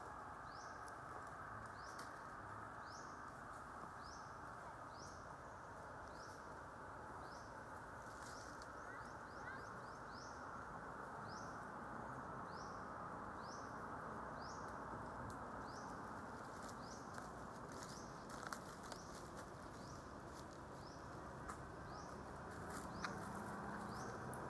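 Outdoor ambience with a steady low hiss. Over it, a short, high, rising chirp repeats evenly a little more than once a second: a small animal's repetitive call.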